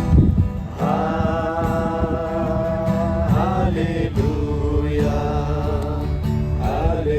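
Voices singing a Nepali Christian worship chorus of praise to Jesus, long held notes over a steady musical accompaniment.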